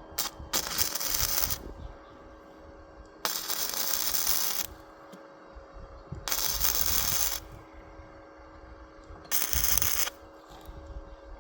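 Four separate bursts of hissing noise, each about one to one and a half seconds long and a few seconds apart, over a faint steady hum.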